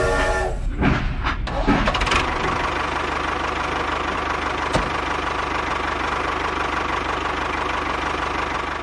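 An engine running steadily with a fast, even rattling beat. A brief whistle-like tone ends about half a second in, and a single sharp click comes about five seconds in.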